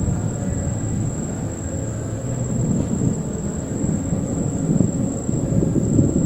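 Thunder rumbling low and steady, swelling slightly partway through.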